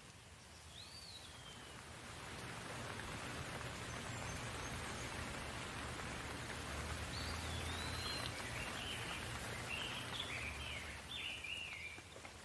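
Rain falling in a steady hiss that grows louder about two seconds in and eases near the end. A bird chirps once early on and then calls in a quick run of short chirps over the latter half.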